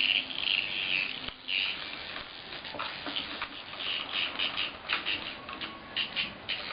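Cicada buzzing in irregular bursts: a longer buzz about the first second, then a run of short, stuttering buzzes.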